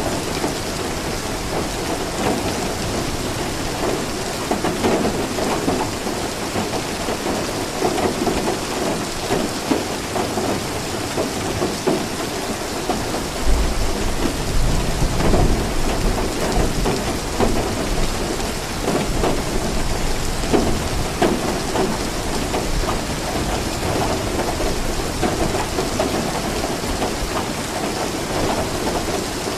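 Steady heavy rain falling, with a deep rumble of thunder rolling in about halfway through and fading over a few seconds.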